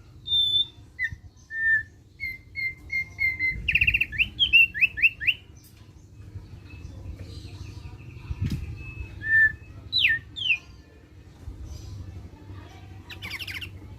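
Thick-billed heleia (opior paruh tebal) singing: clear whistled notes, then a quick run of short repeated notes that breaks into rapid falling whistles. After a pause come a held whistle, two sharp downward sweeps and a short buzzy burst near the end, over a steady low hum.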